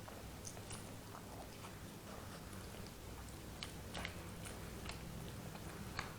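A person chewing instant curry noodles, with scattered small mouth clicks and smacks, a cluster of them about three and a half to four seconds in, over a low steady hum.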